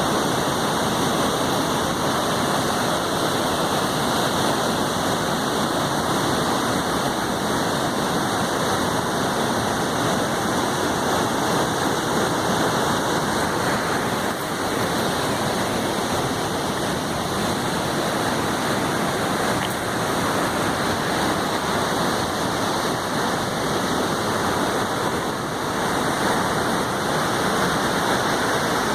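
Waterfall rushing steadily, a dense unbroken roar of falling water.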